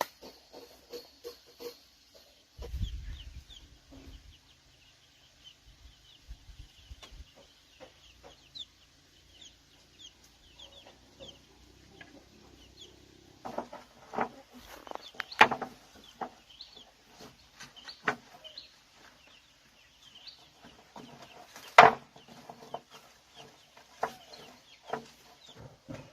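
Chickens clucking, with many short high chirps throughout and several sharp knocks, the loudest about 15 and 22 seconds in.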